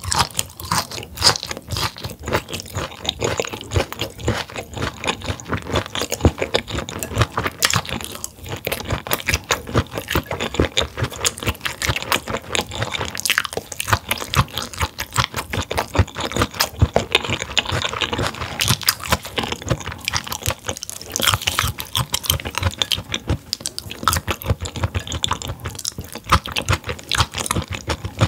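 Close-miked chewing of grilled mullet gizzard and grilled vegetables: a dense, rapid run of crunching mouth clicks.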